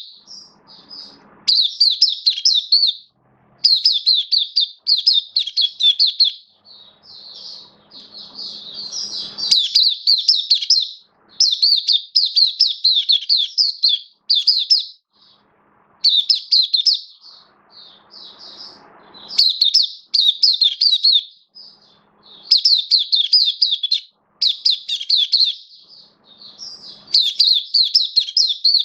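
White-eye (mata puteh) singing: fast, high twittering phrases about a second long, repeated over and over with short breaks between them.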